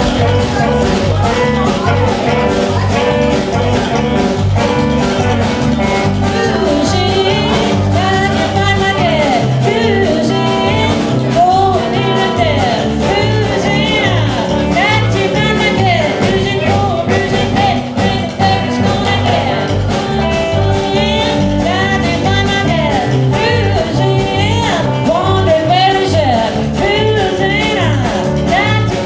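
Live band playing an upbeat rock-and-roll number, with a steady driving beat and a lead part bending its notes up and down.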